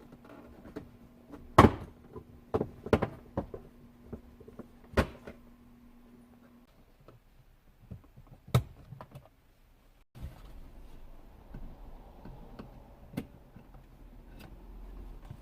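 Irregular sharp clicks and knocks from hands and tools working on a car's interior dashboard trim, about half a dozen in all, the loudest near the start. A faint steady low noise comes in after a short dropout about two-thirds of the way through.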